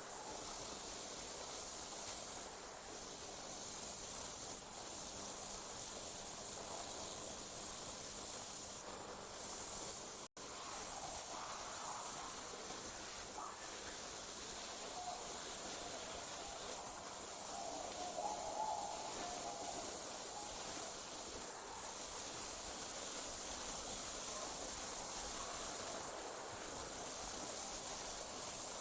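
Night insects trilling in a steady high-pitched chorus that breaks off briefly every few seconds.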